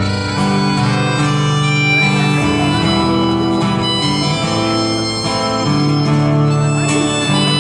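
Live acoustic folk music without singing: an instrumental passage of held melody notes over guitar accompaniment.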